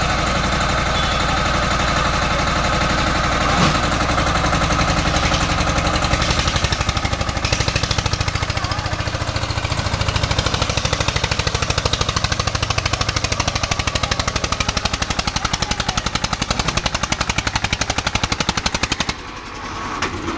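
Eicher 241 tractor's diesel engine running hard with a fast, even pulsing beat as it strains to haul a trolley loaded with bricks up a wet slope; the sound drops suddenly about a second before the end.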